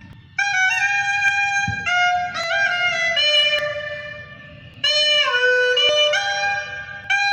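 Clarinet playing a patriotic melody solo in phrases, with sliding bends between notes and short pauses between phrases.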